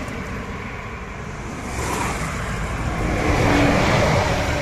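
Steady road noise, with a passing vehicle swelling louder in the second half and then fading.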